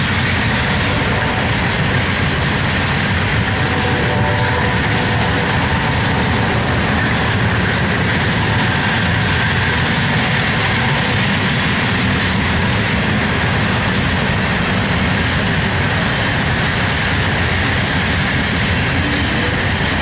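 Loaded coal train rolling past: a steady din of heavy steel wheels on rail, with faint wheel squeal near the start and again near the end.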